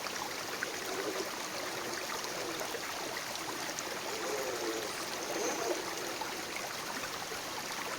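Steady rushing of running water, like a nearby stream, with a faint wavering whine about halfway through.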